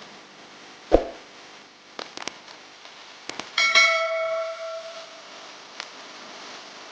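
A dull knock about a second in and a few light clicks, then a struck metal object that rings out with a clang and fades over about a second and a half.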